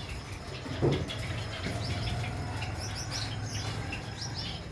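Many small cage birds, finches and Java sparrows among them, chirping busily in quick, high, overlapping calls, over a steady low hum. A brief low bump about a second in is the loudest sound.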